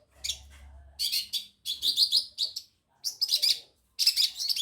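Cendet (long-tailed shrike) singing in short bursts of high, rapid chirps, packed into a fast continuous run near the end. Its song mimics ciblek kristal (prinia) and canary phrases.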